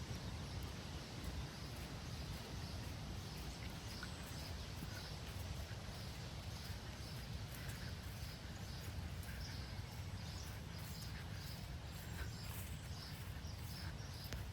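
Birds chirping in short, high calls that come more often after the first few seconds, over a low, steady outdoor rumble.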